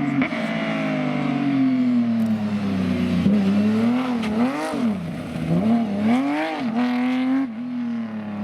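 Porsche rally car engine at speed. Its note falls steadily for the first few seconds, then revs sharply up and down several times in the middle, holds steady, and drops once near the end.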